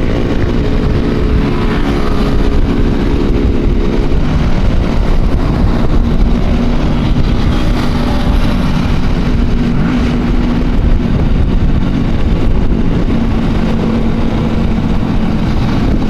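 Motorcycle engines running steadily at cruising speed in a group ride, under a heavy low rumble of wind on the microphone.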